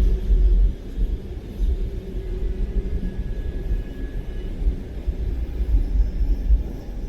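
Low, uneven rumble of a car driving along, heavy in the bass with no clear engine note.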